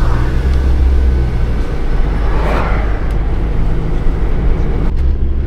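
Steady low engine and road rumble inside a moving campervan's cab, with a brief swell of noise about two and a half seconds in.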